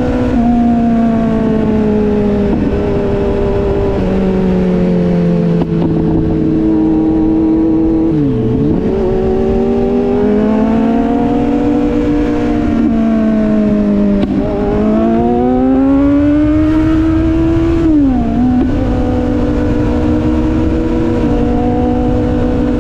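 Sport motorcycle engine running on the road, its pitch slowly falling and rising with the throttle, with two quick drops and recoveries about a third and four-fifths of the way through, like gear changes, over a low wind rumble.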